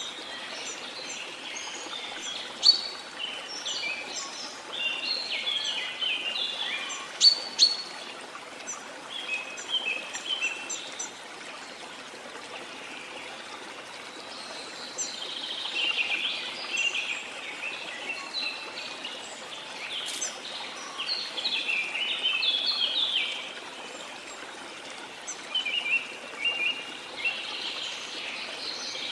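Small songbirds chirping and twittering in busy spells, with a few sharp, loud notes standing out, over a steady rush of water.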